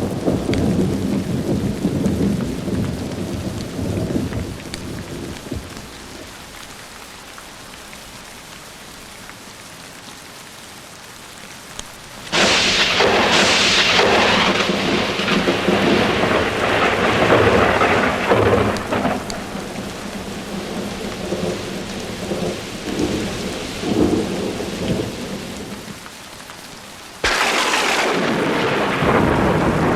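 Thunderstorm with steady rain. A thunder rumble fades out over the first few seconds. About twelve seconds in a sudden close thunderclap breaks and rolls on for several seconds, and another sharp clap comes near the end.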